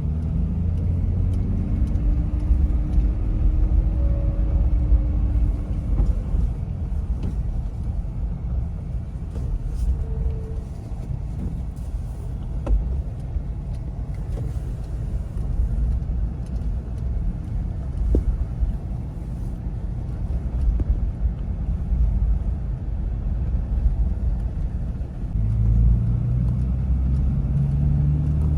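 Toyota Land Cruiser 70 driving, its engine and road noise running low and steady. The engine pitch rises as it accelerates at the start and again near the end.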